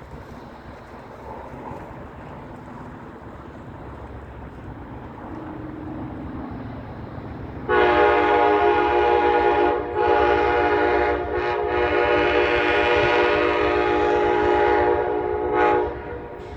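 Amtrak passenger locomotive's multi-chime air horn blowing a long drawn-out sounding about eight seconds in, with a couple of brief breaks and a short final blast, over the low rumble of the approaching train.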